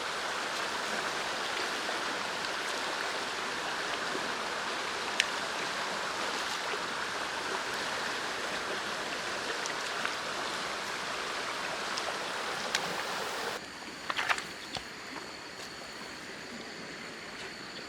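Heavy rain falling steadily, a dense hiss with scattered sharp drip ticks. About thirteen and a half seconds in it cuts off abruptly to a quieter background with a steady high-pitched tone and a few light knocks.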